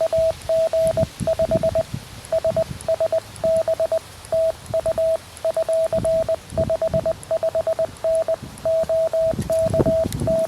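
Morse code from a QRP Labs QMX transceiver: a single steady mid-pitched tone keyed in dots and dashes as a CW contact goes on.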